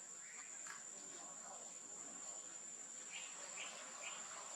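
Faint, steady, high-pitched insect drone, like crickets, with three short chirps in quick succession near the end.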